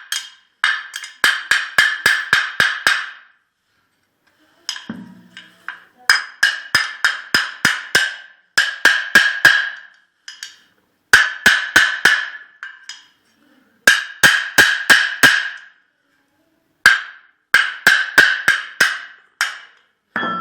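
Repeated metal-on-metal tapping on a brush-cutter engine's magneto flywheel, in quick runs of several strikes about four a second with pauses between runs, each strike ringing. The tapping is meant to work the stuck flywheel loose from its shaft.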